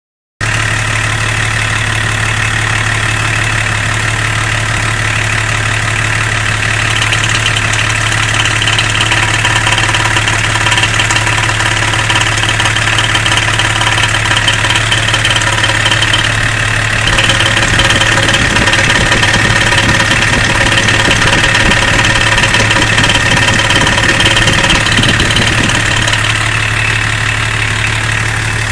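Car engine idling steadily with a rapid knocking from the cylinder head, which the owner calls a knock in the head. It gets slightly louder about two-thirds of the way through.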